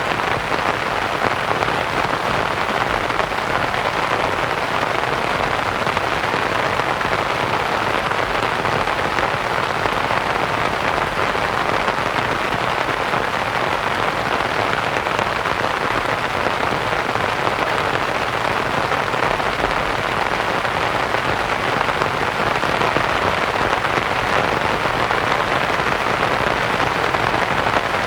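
Steady rain pattering on a canvas tent, mixed with soft white noise, an even, unbroken hiss.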